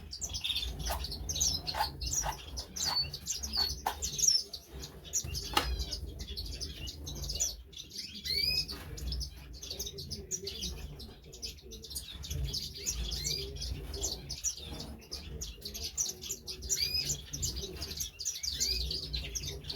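Many caged canaries chirping and calling, short sweeping chirps overlapping throughout. A few sharp clicks and knocks sound in the first several seconds.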